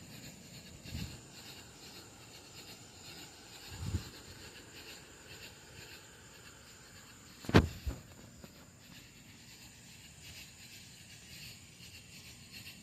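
Faint outdoor background with a steady high chirring, broken by a few knocks: two soft ones early and one loud, sharp knock about seven and a half seconds in.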